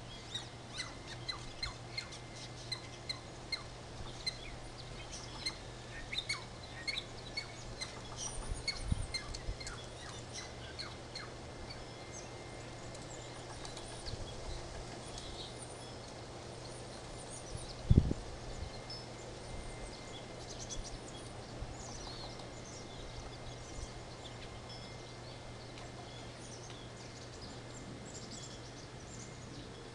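Small birds chirping, with a quick regular run of high chirps in the first few seconds and scattered calls after. A brief low rumble comes around nine seconds in, and a single loud thump about eighteen seconds in.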